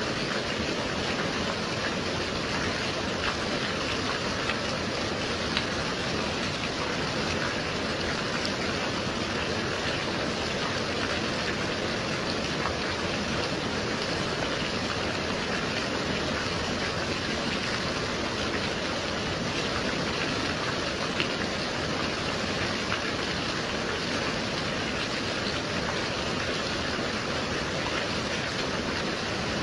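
Steady gentle rain: an even hiss of rainfall with occasional faint individual drop ticks.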